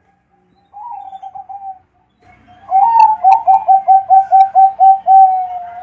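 Zebra dove (perkutut) cooing: a short run of quick coo notes, then a longer, louder phrase of about ten rapid repeated coos ending in a drawn-out note.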